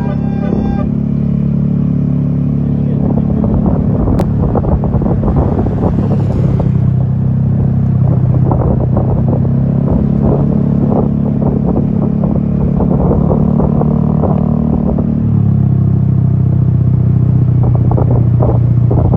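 A multi-note telolet bus horn cuts off just under a second in, leaving a bus engine running steadily at a low pitch; the engine gets slightly louder about fifteen seconds in.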